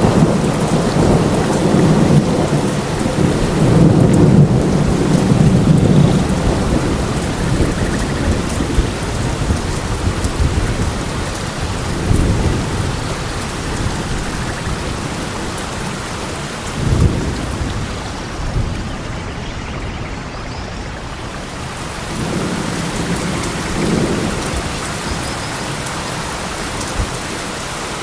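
Steady rain falling on a forest, with low rolling rumbles of thunder, heaviest over the first six seconds and returning briefly about twelve, seventeen and twenty-four seconds in.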